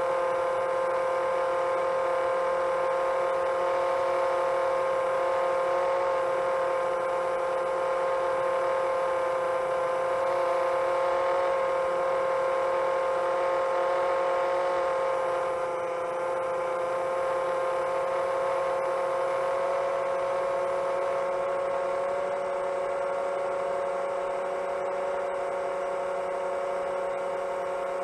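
Quadcopter's brushless motors and 7-inch propellers whining steadily at cruise throttle. About halfway through the pitch drops a little and the sound gets slightly quieter as the throttle eases.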